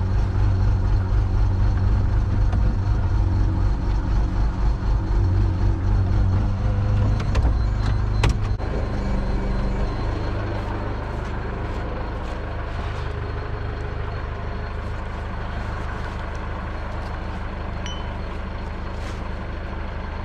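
A heavy vehicle's engine running hard with a low rumble. Just over eight seconds in there is a sharp metallic knock, and the engine then settles to a quieter, steady run.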